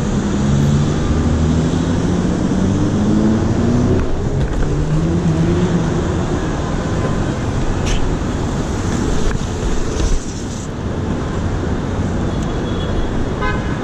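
Street traffic noise, with one vehicle's engine rising steadily in pitch over the first several seconds as it accelerates.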